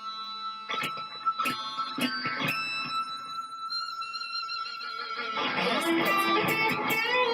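Distorted electric guitar played slowly: a few picked notes over a long sustained high note, then a busier phrase with vibrato near the end.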